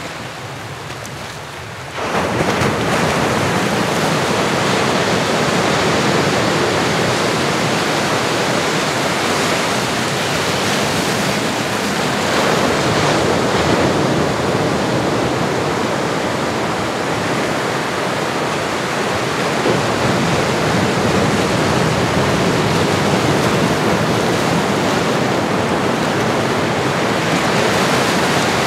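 Recorded ocean surf: a steady rush of waves washing in, which becomes clearly louder about two seconds in and then rises and falls gently.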